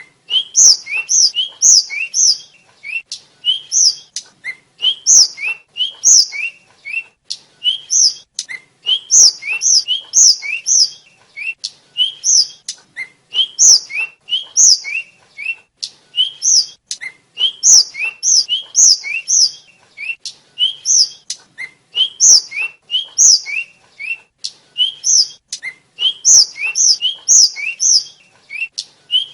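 A tledekan (sikatan, an Indonesian blue flycatcher) singing its song, a nonstop run of short, high whistled notes that sweep upward, several a second, alternating between lower and higher pitches.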